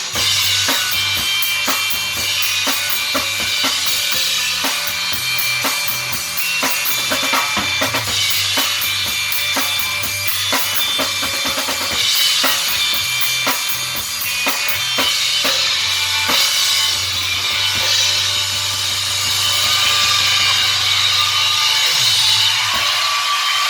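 Rock music without singing: a drum kit plays a steady beat on bass drum and snare over held chords, and the drumming thins out about two-thirds of the way in while the chords ring on.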